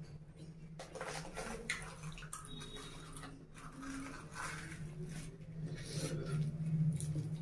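Close-miked wet chewing and lip-smacking of curry-soaked puri, with the soft tearing of fried puri bread by hand: irregular short smacks and clicks. A steady low hum runs underneath and grows slightly louder near the end.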